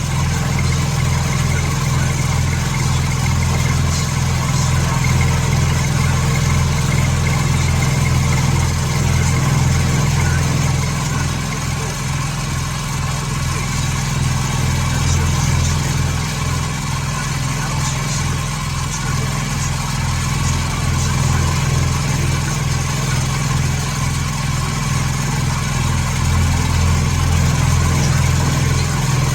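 Machine tool in a machine shop running steadily, a constant low hum that holds for the whole stretch.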